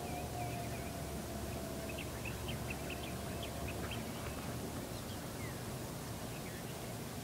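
Birds calling from the forest: a quick run of short high chirps, then a few falling notes, over a low steady background rumble. A faint steady tone fades out about two seconds in.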